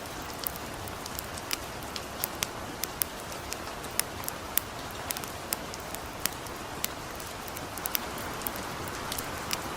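Light rain with a steady hiss, mixed with a campfire whose irregular sharp crackles and pops come a few times a second.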